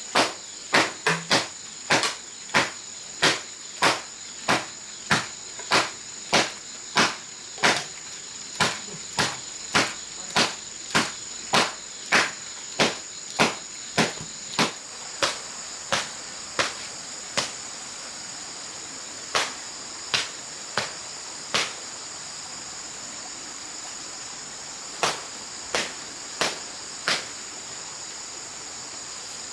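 A hand tool striking over and over, about one and a half blows a second. After about seventeen seconds it pauses, and a few scattered blows follow. A steady high insect drone carries on behind, like crickets.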